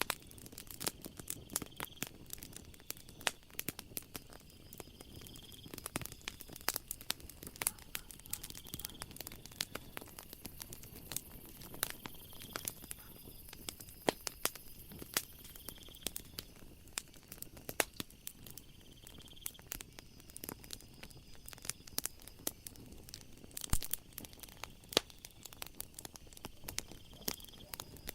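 Wood fire crackling, with many irregular sharp pops and snaps over a low, steady rush of burning. Faint chirps of night insects repeat every second or two behind it.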